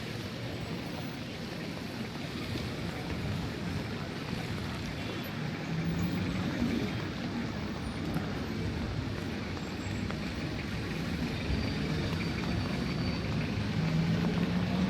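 Road traffic: a steady hum of passing vehicles, with an engine drone growing louder about six seconds in and again near the end.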